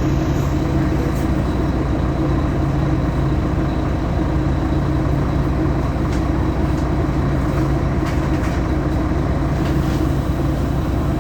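Solaris Urbino 18 bus's DAF Paccar PR265 diesel engine running steadily with an even, unchanging hum and the loud belt noise this engine is known for.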